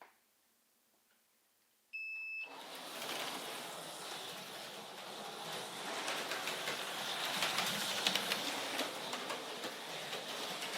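An electronic start beep from a lap-timing system, a single steady high tone of about half a second, then HO-scale Tyco 440x2 slot cars running on the track: a steady buzzing whir of the small motors and pickup shoes on the rails, with fine clicks and rattle, swelling a little as they race.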